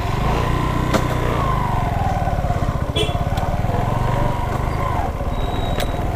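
A vehicle's engine running as it drives slowly, a steady low throb with a faint whine that drifts up and down in pitch, and a few light clicks.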